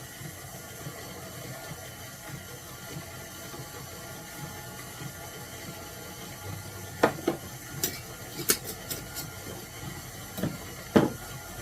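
Dried parsley being crumbled by hand into a bowl: a string of sharp crackles and clicks in the second half, over a steady low background hum.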